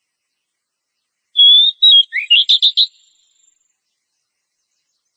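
Oriental magpie-robin singing one short, loud whistled phrase about a second and a half in. A clear held note gives way to an upward sweep and a quick run of chirping notes, ending at about three seconds.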